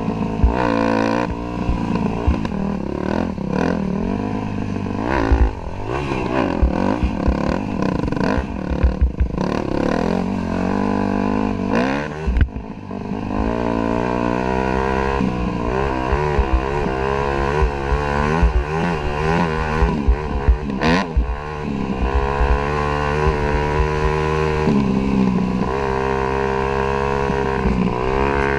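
Dirt bike engine running while being ridden, its pitch rising and falling over and over as the throttle opens and closes, with a brief drop about halfway through. Frequent low thumps run under the engine throughout.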